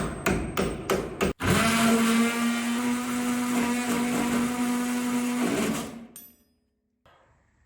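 Oscillating multi-tool with a metal-cutting blade cutting through a rusted body-mount bolt. It starts in a few short bursts, then runs at a steady pitch for about four seconds, and stops about six seconds in.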